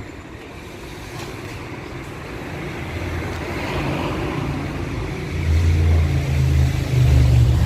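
Street traffic, with a motor vehicle's engine hum growing steadily louder as it comes close, loudest over the last couple of seconds.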